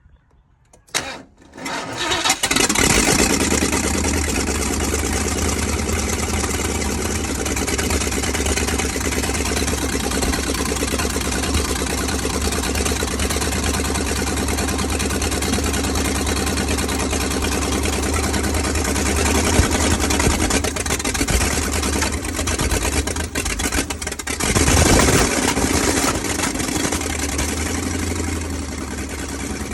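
Carburetted Ford 351 Windsor V8 of a 1985 E-150 van being started: a knock about a second in, then the engine catches and runs with a steady low beat. It stumbles briefly around twenty-two seconds, then surges louder. It is an engine that chokes out and sneezes fuel back out of the carburettor.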